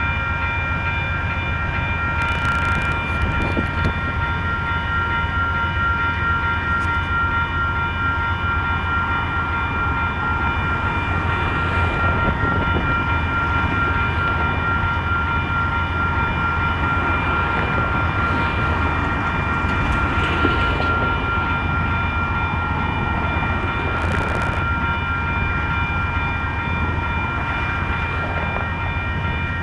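Amtrak passenger train's diesel locomotive idling while standing at a station: a steady low rumble with a constant high whine. Two short hisses come about two seconds in and again near the end.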